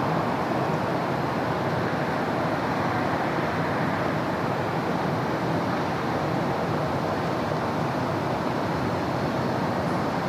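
Steady city traffic noise: a continuous wash of road vehicles passing, with no single vehicle standing out.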